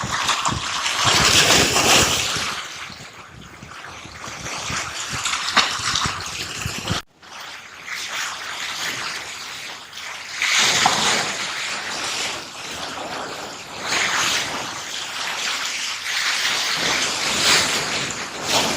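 Sea waves washing onto the shore: a rushing noise that swells and fades every few seconds, broken by a sudden brief drop about seven seconds in.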